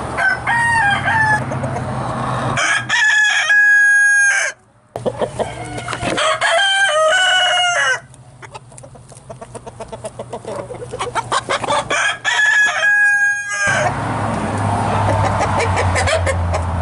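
Chickens in a coop: roosters crowing three times, loud and held, with hens clucking between the crows.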